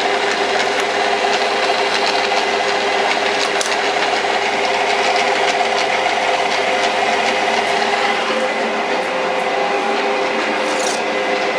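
Small metal lathe running steadily, its tool taking a cut on the taper of a steel center point: a constant machine whine with several held tones over an even hiss.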